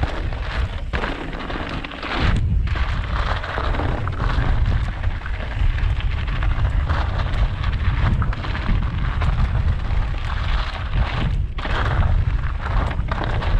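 Wind buffeting the microphone in heavy, uneven gusts of rumble, over the continuous crunch and rattle of a mountain bike rolling down a rough track.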